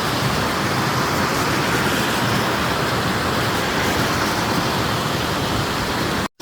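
Steady rush of a waterfall and the creek below it, an even noise of falling water that drops out for an instant near the end.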